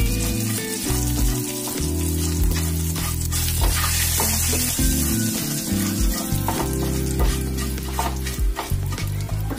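Ground spice paste frying in hot ghee in a pan, sizzling steadily while it is stirred, with frequent short clicks of the utensil against the pan.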